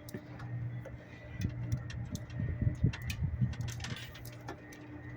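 Footsteps climbing steep stairs, with scattered irregular knocks and clicks over a low steady rumble.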